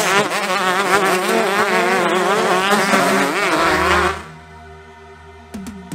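Several motocross bikes' engines buzzing, their pitch rising and falling as the riders work the throttle. The sound cuts off about four seconds in, giving way to a quieter low drone and steady tones.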